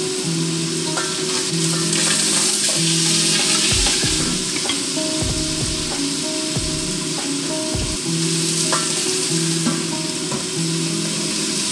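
Food sizzling in a frying pan, a steady hiss throughout. Background music with short held bass notes runs underneath.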